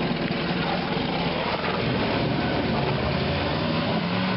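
Honda BF75 7.5 hp four-stroke outboard motor running steadily in gear, below full throttle.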